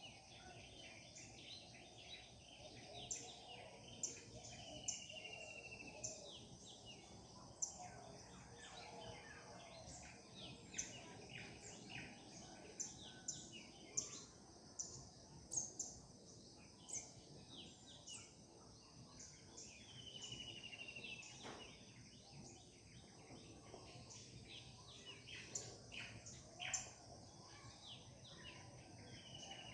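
Several birds singing together in the morning chorus, faint, with many short chirps and calls overlapping. A clearer falling whistled note comes about three times, over a faint steady background hum.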